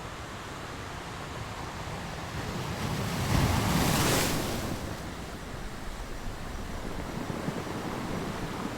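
Sea surf washing steadily, with one wave swelling up and breaking about three to four seconds in, then falling back to the steady wash.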